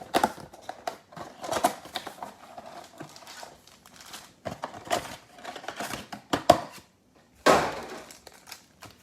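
Plastic shrink-wrap crinkling and cardboard being handled and torn as a mega box of trading cards is opened, in irregular rustles with a louder crackling tear about three-quarters of the way through.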